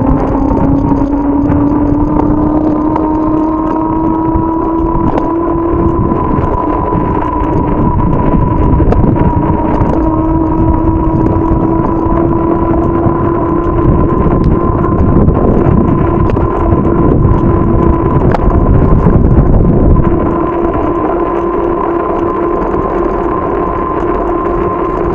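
Wind buffeting the microphone on a moving bicycle, strongest near the end, over a steady whine from the moving bike that rises a little in pitch in the first few seconds.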